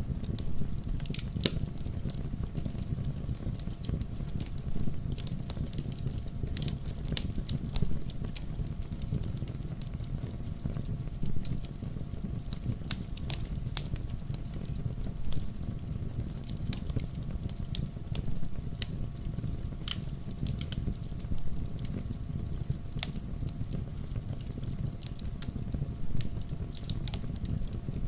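Wood bonfire burning, with frequent irregular crackles and sharp pops over a steady low rumble of the flames.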